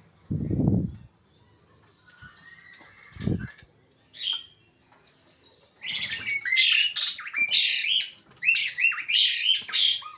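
Asian pied starlings (jalak suren) calling: about six seconds in, a loud run of harsh chirps and squawks with quick downward sweeps sets in and carries on. Before that there are two short low sounds, one near the start and one about three seconds in.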